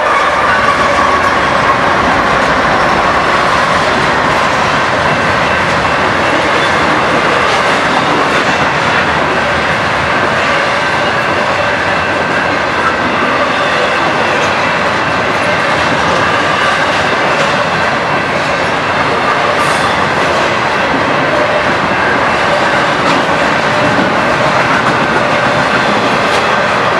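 A train passing close by, its wheels running and clacking over the rails in a steady loud rumble, with faint thin wheel squeal.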